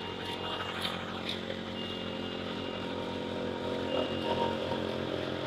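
Engine of road-paving machinery running steadily at a constant speed.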